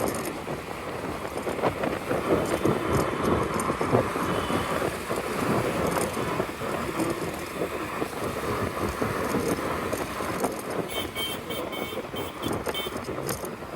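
Riding noise on a Bajaj Chetak electric scooter in city traffic: wind and road rumble on the microphone with surrounding traffic and no engine note. A run of short high beeps sounds near the end.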